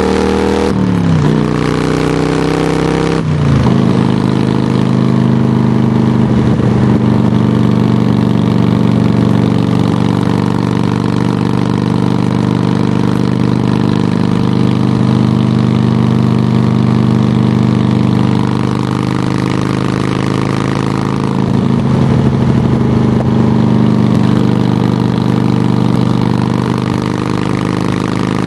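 Harley-Davidson touring motorcycle's V-twin engine running loudly through Samson Silver Bullet mufflers. The engine speed dips and then shifts again in the first few seconds, then holds steady with small changes.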